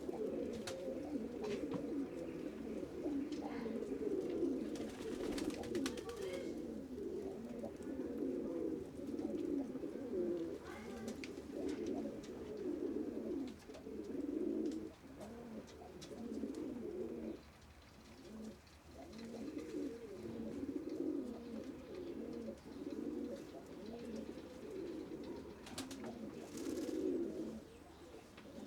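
Many pigeons cooing at once in a continuous, overlapping chorus, easing off briefly about two-thirds of the way through. A couple of brief rustling noises are heard.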